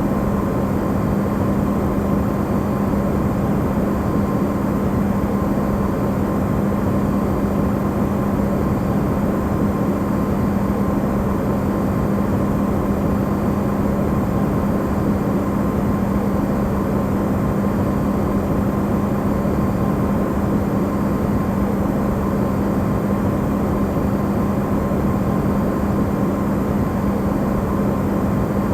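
Electrolux refrigerator running, recorded amplified: a steady, unchanging hum with a strong low tone and a fainter higher one over a broad whooshing noise.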